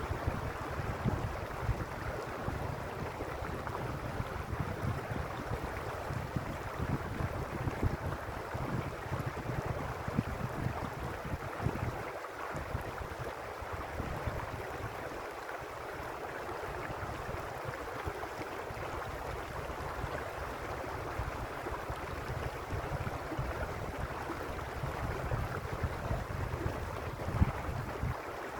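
Mountain stream water rushing and splashing steadily over rocks, with a low, fluttering rumble underneath that thins out briefly twice near the middle.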